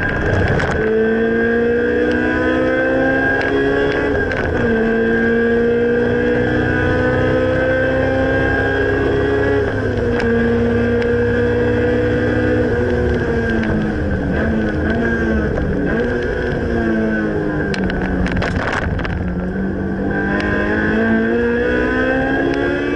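Honda S2000 AP1's four-cylinder engine, breathing through a Spoon N1 exhaust, pulling hard under full throttle. Its pitch climbs through the gears, with sudden drops at upshifts about four and ten seconds in. It then falls and wavers as the car slows and downshifts, and climbs again near the end.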